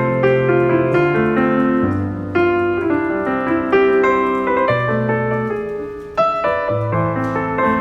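Background piano music: slow, sustained chords and melody notes, with new chords struck about every one to two seconds.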